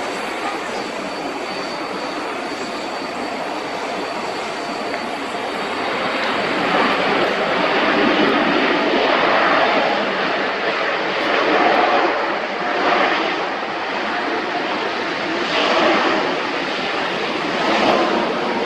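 Jet noise from a FedEx Boeing 777 freighter's two GE90 turbofan engines: a dense, steady rush that grows louder about six seconds in, then swells and fades several times.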